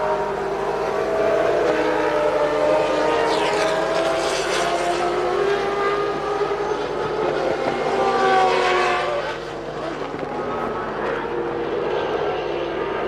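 Formula One cars' 3-litre racing engines running at high revs, their pitch gliding up and down as cars pass, loudest about four seconds in and again near eight seconds.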